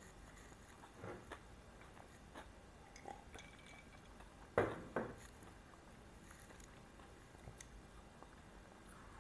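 Close-miked mouth sounds of a man chewing a mouthful of pita wrap and licking his fingers: faint scattered wet clicks, with two louder clicks close together about halfway through.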